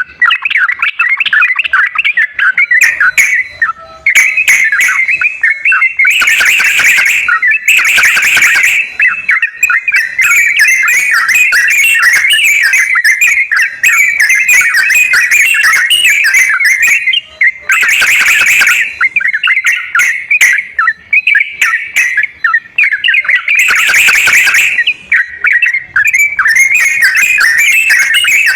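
Yellow-vented bulbuls (trucukan) chattering and warbling continuously, a busy bubbling song used as a prompting track to get a reluctant bird singing. Four short rushing noises cut across it, two together about six to nine seconds in, one around eighteen seconds and one around twenty-four seconds, with faint thin high chirps over the top in between.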